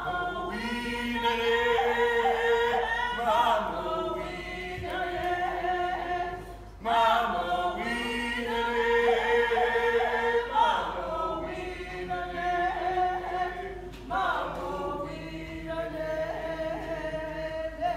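A group of Shinnecock singers singing a song together unaccompanied, several voices in unison and harmony, the phrase starting over about every seven seconds.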